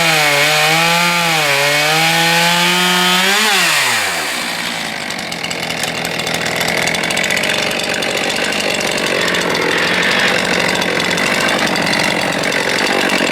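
STIHL MS 441 C-M two-stroke chainsaw running at high revs through a cut, its pitch dipping and recovering as the chain takes load. About three and a half seconds in the throttle is let off and the revs fall away quickly, and the saw runs on at low speed as a rougher noise without a clear pitch.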